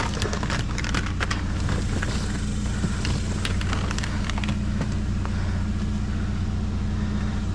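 A vehicle engine idling steadily, with scattered light clicks and rattles from items being handled, mostly in the first second or so.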